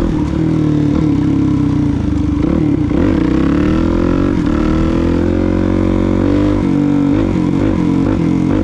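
Suzuki DR-Z400SM's single-cylinder four-stroke engine running under way, its pitch rising and falling with the throttle.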